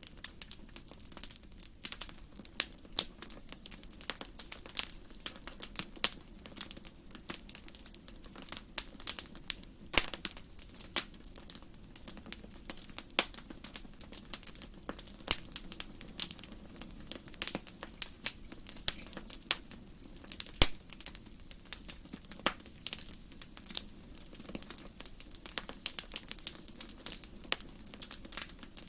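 Wood fire burning in a fireplace: a steady stream of irregular crackles and sharp pops from the burning logs, over a low rumble of the flames.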